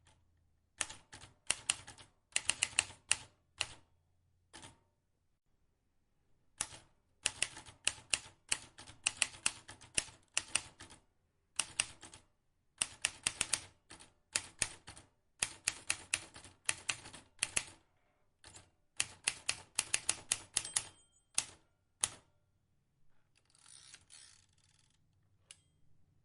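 Vintage manual typewriter keys striking in quick runs of clicks, broken by short pauses. A softer rushing sound follows near the end.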